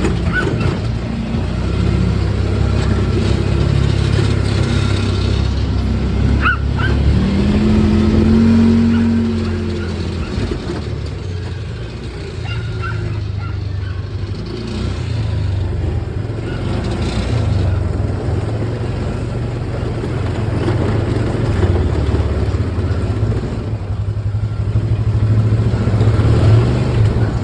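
A vehicle engine running steadily, with a brief rise in pitch about eight seconds in.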